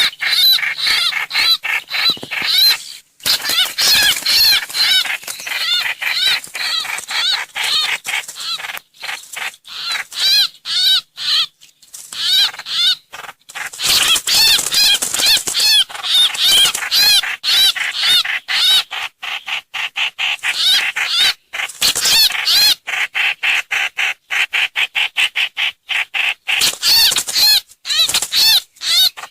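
Recorded calls of the trao trảo (hoành hoạch) songbird played as a trapping lure. Rapid, repeated high chattering notes run almost without pause, broken only by a few brief gaps.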